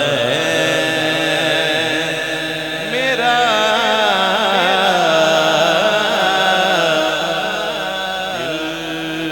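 A male naat reciter singing a long, wavering melismatic line in Urdu, drawing out the vowels of "raha" with no new words, over a steady low held hum.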